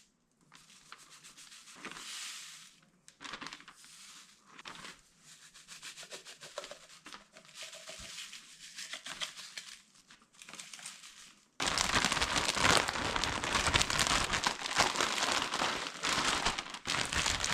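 Plastic zip-top bags crinkling and rustling in short bursts as dry flour mix is handled and shaken in them. About two-thirds of the way in this gives way suddenly to a much louder, steady hissing noise.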